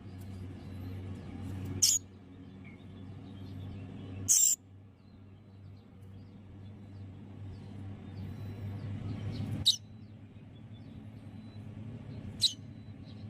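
A baby bird giving short, high-pitched calls, four times a few seconds apart, over a low steady hum.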